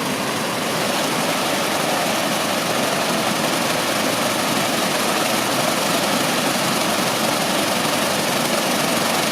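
Steady rush of water cascading in a garden water feature, getting a little louder about a second in.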